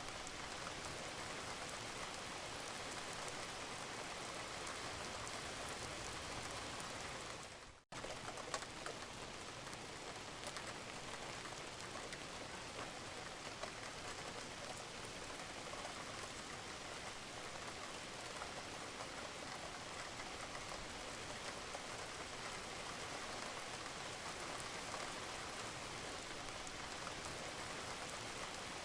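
Steady rain falling on a roof, a dense even patter. About eight seconds in, the sound fades away to a brief gap and then cuts straight back in.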